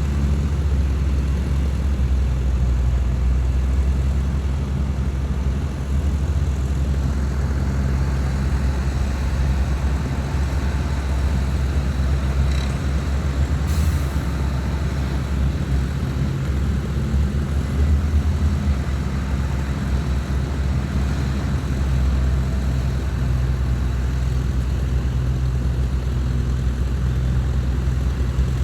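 Heavy diesel engine of earthmoving machinery running steadily at a low pitch, with a short click about fourteen seconds in.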